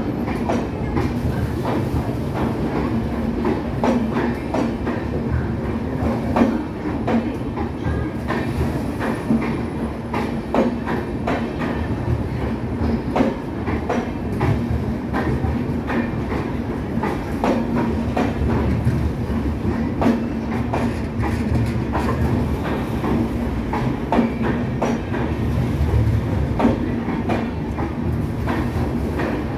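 Passenger train coaches rolling past along a platform, a steady rumble broken by an irregular run of wheel clacks over the rail joints.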